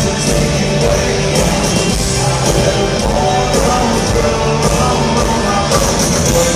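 Live country-rock band playing loud, with a lead singer, drums and amplified guitars.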